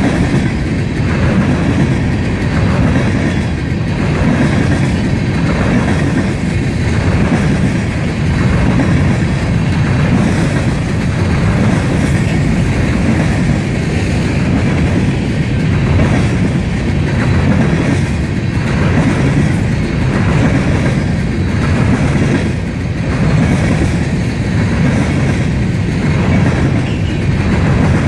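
Freight train of covered hopper cars rolling past, a steady heavy rumble with a rhythmic clatter of the wheels over the rail joints.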